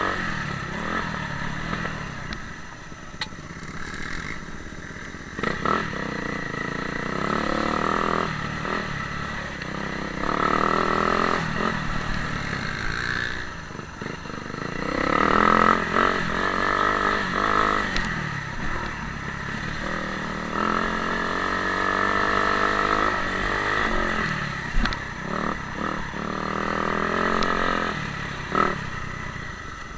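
Motocross motorcycles running on a dirt track, their engines revving up and falling back again and again as they accelerate, with a few sharp knocks along the way.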